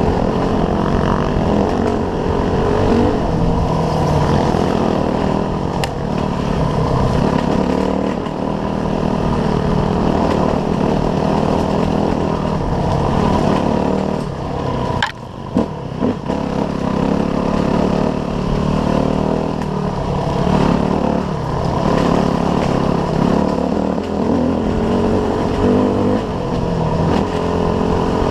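Small off-road motorcycle engine running under load, its revs rising and falling with the throttle over rough ground, with a brief drop off the throttle about fifteen seconds in.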